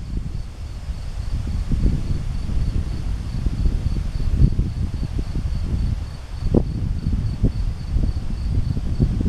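Wind gusting across the microphone, a rumbling buffet that comes and goes. Behind it an insect chirps faintly and steadily in a high pitch, about three chirps a second.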